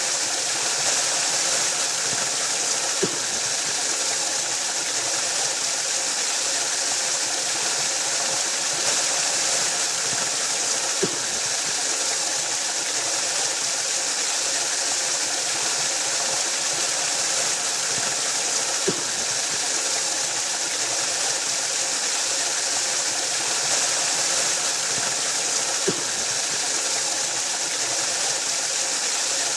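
Waterfall rushing in a steady, even roar of falling water, with a faint short tick four times, several seconds apart.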